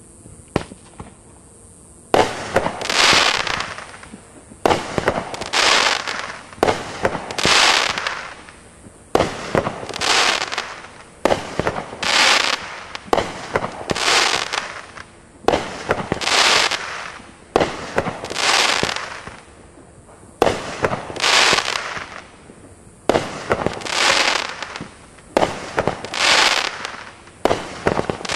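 Winda 'Avalanche' multi-shot firework going off. About two seconds in it starts firing a shot roughly every two seconds, each a sharp report followed by about a second of noisy, crackling burst.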